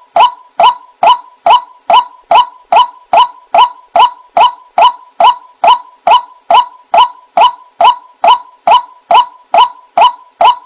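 White-breasted waterhen (ruak-ruak) calling: a loud, very regular run of short, sharp notes, about two and a half a second, all at the same pitch.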